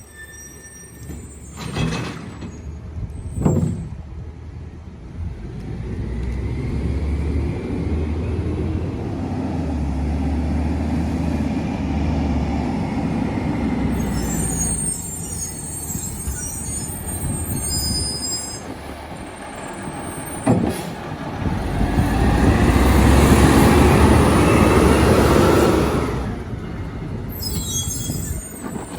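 Mack MRU rear-load garbage truck with a McNeilus body: its diesel engine running and rising in revs twice, the second time loudest, a few seconds before the end. Two sharp knocks come about two and three and a half seconds in, and high squealing is heard in the middle and again near the end.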